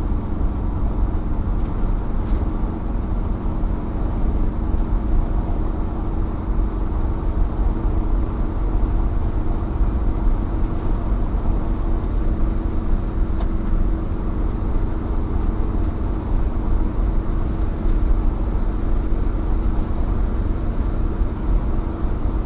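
A Chevrolet Impala's 327 cubic-inch small-block V8 runs steadily at highway cruise, heard from inside the cabin. The engine's drone is mixed with a constant low rumble of tyre and road noise.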